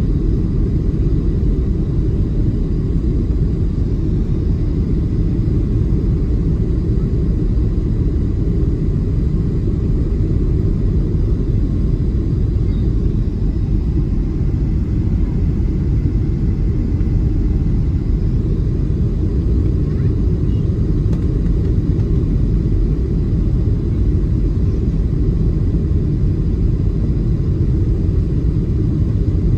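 Boeing 737-700 cabin noise heard from inside the passenger cabin: a steady low rumble that does not change.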